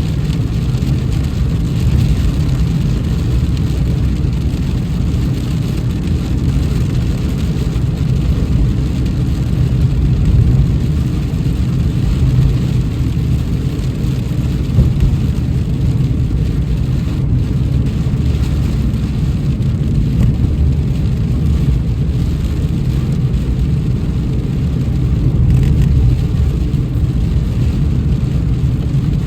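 Car driving in heavy rain: a steady low road-and-engine rumble with rain noise over it.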